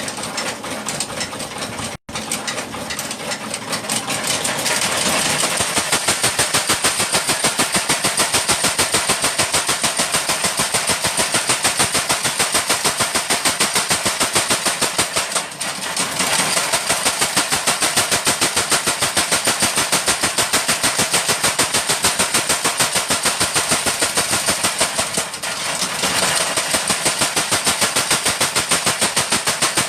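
Mechanical power hammer pounding hot steel for rotary tiller blades in a fast, even rhythm of about five or six blows a second, with a high metallic ring over it. It briefly falls off three times.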